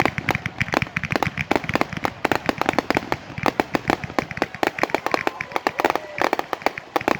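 Fireworks and firecrackers going off in a rapid, irregular string of sharp cracks and pops, several a second.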